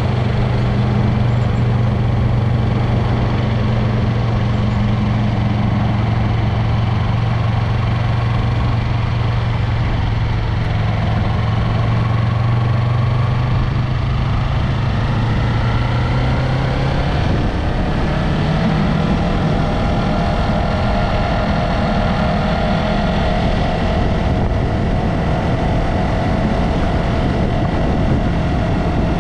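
Yamaha MT-03 motorcycle engine running with a steady low drone; partway through the pitch rises and the engine note changes, as with a change in speed.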